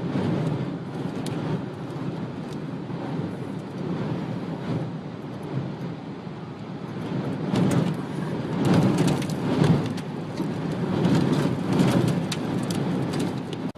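Strong wind gusting and buffeting the microphone in a tornado, with many sharp clicks and knocks mixed in. It surges louder in waves from about seven seconds in.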